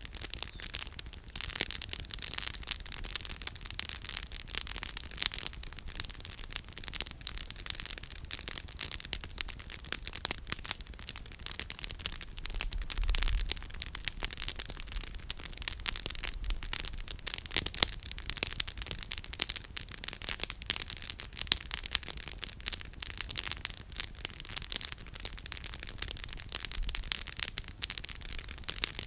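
Wood campfire crackling steadily, the burning firewood giving off a dense, irregular run of sharp pops and snaps.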